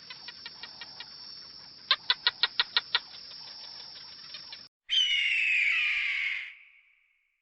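A run of quick, sharp clicks, about eight in a second, over fainter ticking. After a cut comes one loud bird call lasting about a second and a half and falling in pitch.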